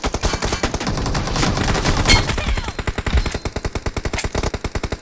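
Video-game automatic gunfire: one sustained stream of rapid shots, about ten a second.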